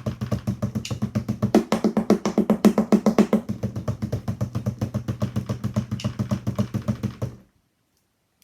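Wooden spoons drumming a fast, even roll on an empty cardboard box, giving a deep, booming thunder effect. The roll swells louder in the middle and stops abruptly about seven seconds in.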